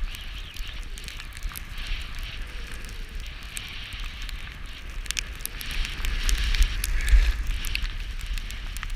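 Skis hissing and scraping over snow in a snowstorm, with scattered crackles and clicks. Wind buffets the microphone in low rumbles, strongest about seven seconds in.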